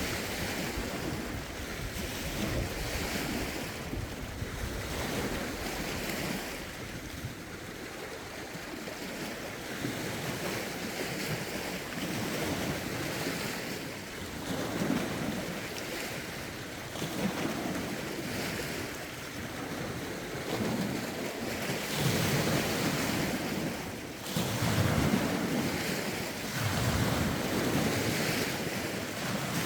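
Small lake waves lapping and breaking against the shore in a steady series of washes, with gusty wind buffeting the phone's microphone in a low rumble. The washes grow louder in the last third.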